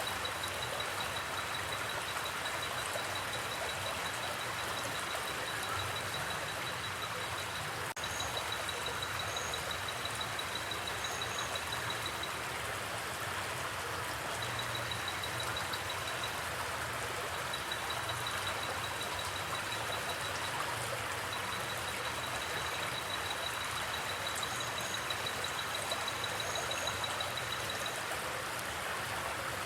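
Steady rushing of a flowing river or creek. A high, fast-pulsing trill comes and goes over it in long stretches, with a few short high chirps.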